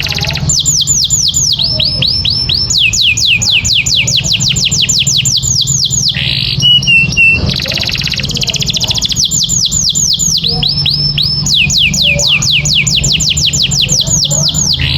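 Domestic canary singing in long rolls of fast, repeated downward-sweeping whistled notes, with a brief, loud, steady whistled note about halfway through, over a low steady hum.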